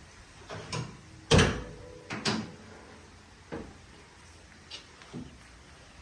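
A series of clunks and clicks from handling the 1968 Camaro, the loudest a heavy thump like a car door shutting about a second and a half in. The engine is not yet running.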